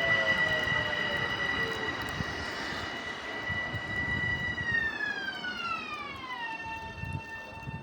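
Electric commuter train's traction motors whining at a steady pitch, then gliding smoothly down in pitch about five seconds in and holding lower: the train is braking as it slows. There is a low rumble of wheels on rail underneath, with scattered clicks.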